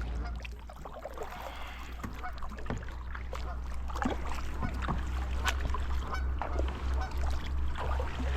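Kayak paddle strokes splashing in the water, with wind rumbling on the microphone and geese honking now and then.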